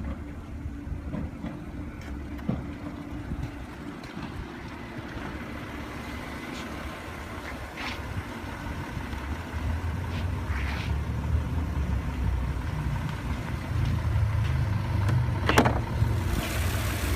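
Audi 3.0-litre TFSI supercharged V6 idling steadily, growing louder about ten seconds in as the hood is opened, with a few sharp clicks from the hood release and latch.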